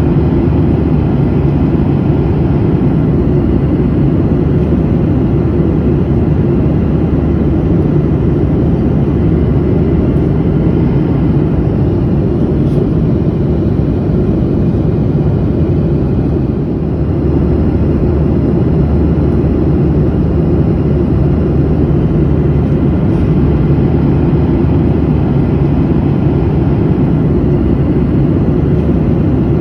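Steady low drone of a passenger airliner in flight, engine and airflow noise heard from inside the cabin, with a slight dip in level about two-thirds of the way through.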